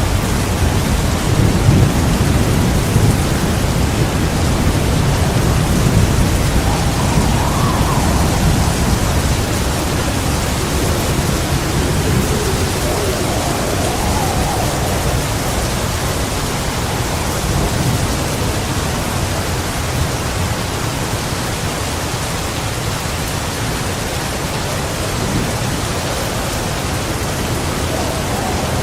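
Heavy rain falling steadily, with deep thunder rumbling through the first ten seconds or so and then easing off. Faint wind gusts rise and fall in slow swells.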